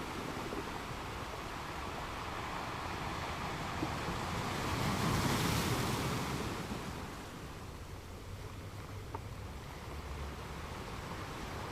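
Ocean surf: waves breaking and washing in under a steady hiss, one wave swelling to a peak about five seconds in and then drawing back.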